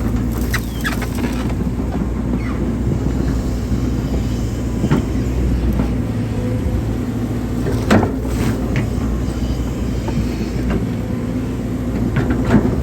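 Hydraulic excavator's diesel engine running steadily under work, with a few short knocks and clanks from the machine, the loudest about eight seconds in.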